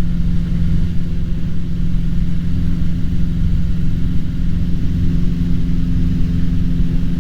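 Cessna 150's four-cylinder Continental O-200 engine and propeller droning steadily in flight, with no change in pitch.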